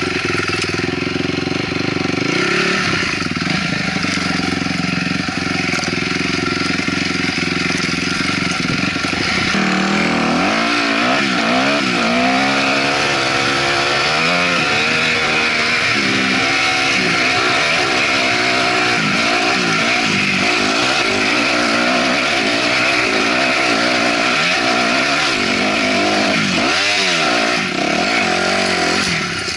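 Honda CRF250R dirt bike's single-cylinder four-stroke engine running fairly steadily for about ten seconds, then revving up and down over and over as the bike is ridden through the gears.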